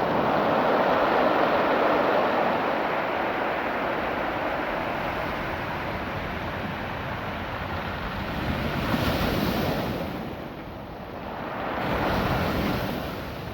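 Ocean surf washing over a beach of small rounded rocks. A wave surges loudest about a second in and slowly recedes, and two smaller surges follow later.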